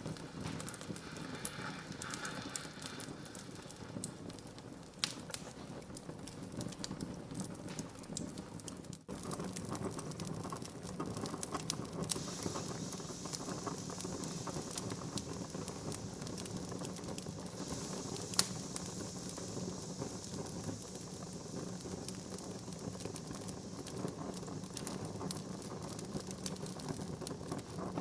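Wood fire burning in a fireplace: a steady hiss with frequent crackles and small pops of the wood, and one sharper pop about two-thirds of the way through.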